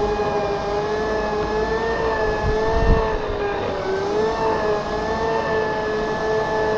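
Segway electric drive motors whining steadily while riding, the pitch drifting slightly up and down with speed, over a low rumble of wheels and wind. A single low knock about three seconds in.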